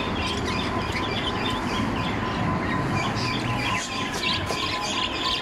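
Steady background noise with a faint steady hum, and small birds chirping faintly now and then.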